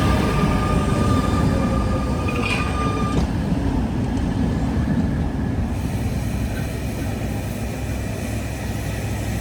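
Tatra ČKD tram running on its rails with a steady low rumble; during the first three seconds a high steady tone sounds along with a slowly falling whine, which then fade out.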